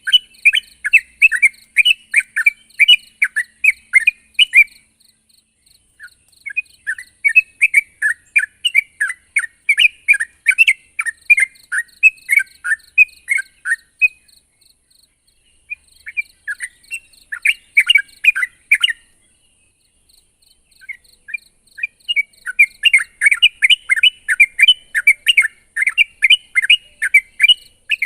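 Yellow-vented bulbul (trucuk) singing in full, fast song: long runs of quick, bubbly chattering notes in four bouts with brief pauses between them. This is the vigorous 'gacor' song used as a rival call to provoke other males.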